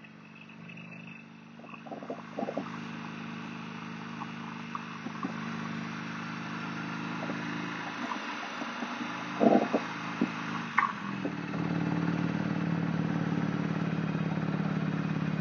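Motorcycle engine running steadily during a ride, picked up on a wired earphone microphone, with a few short knocks and clicks along the way. The engine gets louder about eleven seconds in and stays that way.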